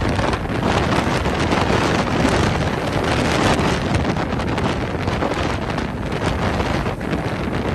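Strong tropical-storm wind buffeting the microphone: a loud, continuous rush with gusty swells and no let-up.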